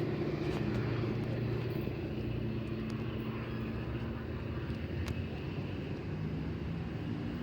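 A large engine running steadily, a low drone with a few faint clicks.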